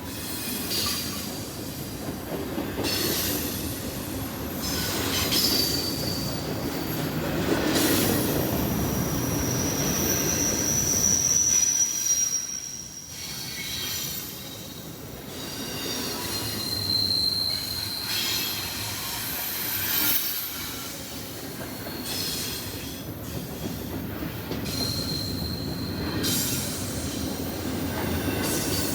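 Freight train cars rolling past on the rails with a steady rumble, broken by several high wheel squeals that each last a second or two.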